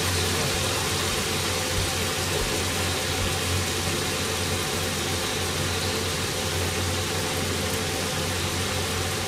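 Hamburger steaks frying in a frying pan under a pie-plate press: a steady hiss over a low, even hum.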